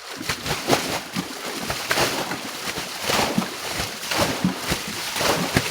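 Water sloshing and splashing in repeated, irregular strokes, a few each second.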